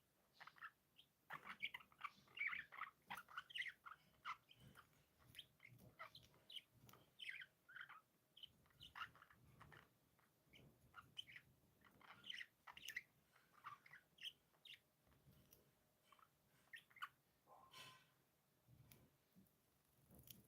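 Budgerigars chirping and chattering softly in short, scattered calls, livelier in the first few seconds.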